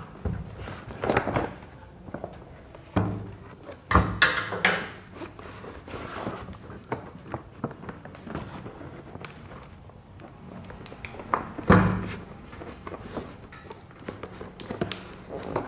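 Cardboard and plastic packaging being handled and pulled open, with rustling and several knocks of the parts inside; one louder knock late on.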